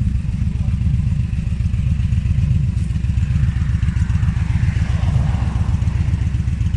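Motorcycle running at road speed, heard from on board as a loud, steady low rumble. A fainter sound falls in pitch about three to five seconds in.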